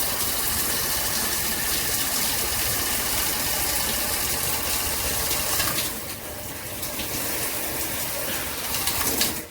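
Handheld shower head spraying water in a steady rushing hiss. The spray softens about six seconds in, and the flow cuts off abruptly near the end as the pause setting is engaged.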